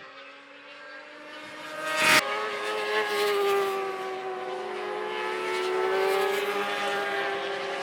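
Racing motorcycle engines at high revs, getting louder over the first two seconds with a sharp crack about two seconds in, then holding a steady high note.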